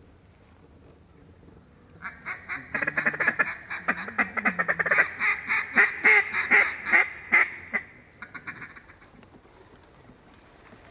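Mallard-style duck quacking in a fast, loud run of quacks and chatter, starting about two seconds in and trailing off near the end.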